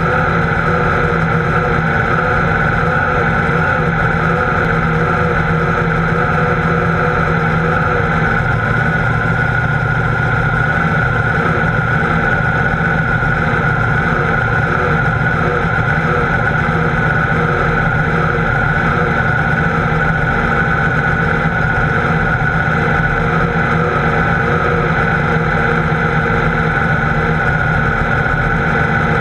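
Pro Mod Camaro drag car's engine idling steadily, heard from inside the cockpit.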